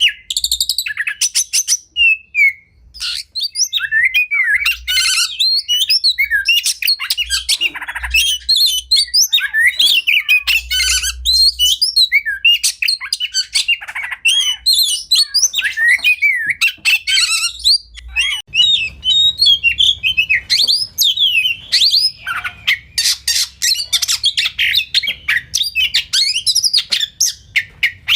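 Oriental magpie-robin (kacer) singing a long, varied song of rapid whistles, chirps and scratchy trills, with hardly a pause.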